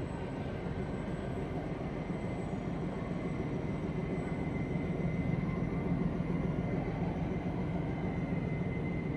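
Steady low mechanical rumble of a running engine or heavy machinery, with a faint steady high whine; it swells slightly about halfway through.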